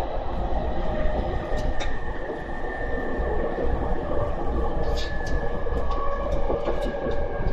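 Running noise of an E231 series suburban electric train with a replaced VVVF inverter, heard from inside the car: a steady rumble of wheels on rail with a faint high whine that slowly falls in pitch, and a few sharp clicks.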